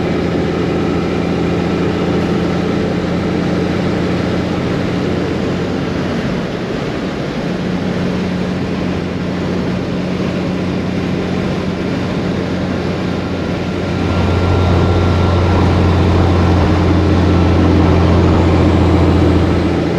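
Heavy cabover semi truck's diesel engine running with a steady low drone, growing louder about two-thirds of the way through.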